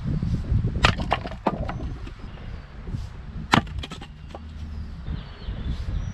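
Fiskars X25 splitting axe striking and splitting ash firewood: a cluster of sharp cracks and knocks about a second in, then one loud sharp strike about three and a half seconds in.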